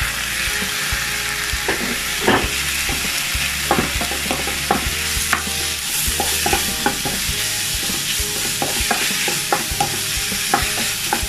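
Chicken breast pieces sizzling in hot oil with onion and garlic in a nonstick pan. A wooden spatula stirs them, giving irregular taps and scrapes against the pan over a steady hiss.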